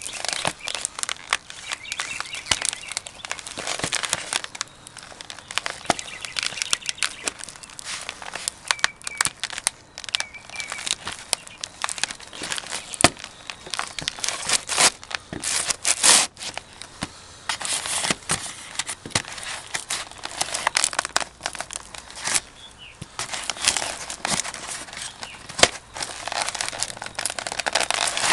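Cardboard pizza boxes crunching and crackling under stomping boots, a continuous run of sharp crackles with several louder crushing crunches.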